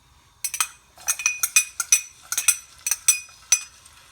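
A metal spoon or utensil clinking and knocking against a cooking pan, a quick irregular run of sharp clinks with a short ring, starting about half a second in and thinning out near the end.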